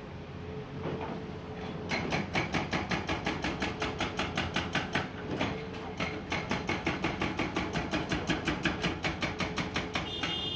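Hydraulic breaker on a Komatsu PC490 excavator hammering rock: a fast, even run of blows, about six a second, starting about two seconds in, with a short break near the middle, over the excavator's running diesel engine.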